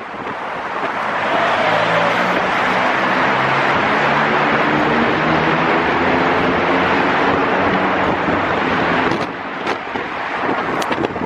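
Motor vehicle traffic noise heard from a moving vehicle: a steady rush of road noise with an engine hum, swelling about a second in and falling back about nine seconds in.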